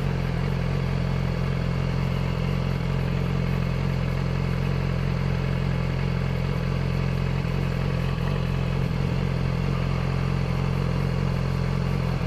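Yamaha YZF-R6's inline-four engine idling steadily.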